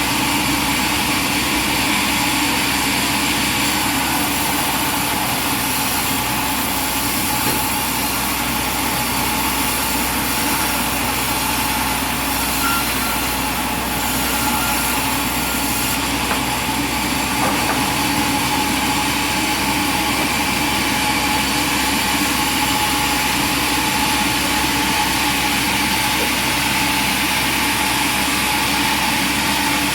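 Machinery running steadily, a constant hum with a few held tones and no separate knocks or cuts.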